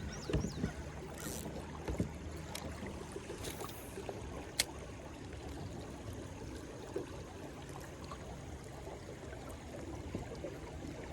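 River water running and lapping around a kayak, with a few light knocks and two short splashy hisses over the steady flow.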